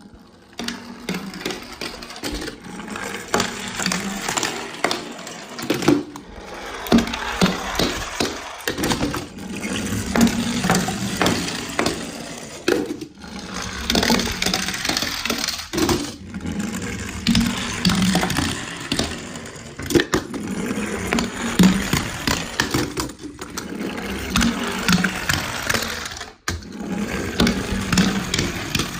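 Small die-cast toy cars rolling down a toy slide, wheels rattling with a steady run of clicks and clatters. The noise breaks off abruptly a few times.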